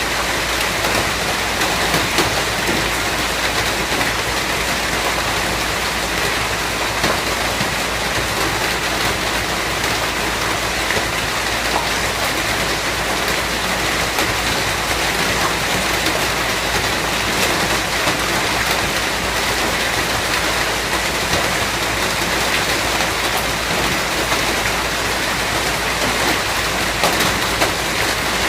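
Steady rain falling: an even hiss with many small, sharp drop ticks.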